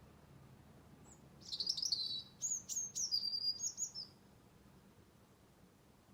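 A songbird singing one high phrase of quick, varied notes, starting about a second and a half in, lasting about two and a half seconds, and ending on a short held whistle.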